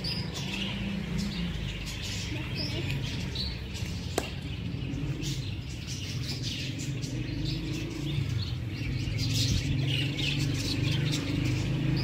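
Birds chirping in short, scattered high calls over a steady low hum, with a single sharp click about four seconds in.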